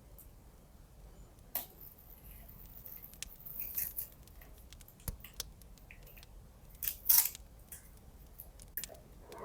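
Scissors cutting paper, the loudest snips coming about seven seconds in, among softer rustles of paper handling and scattered faint clicks.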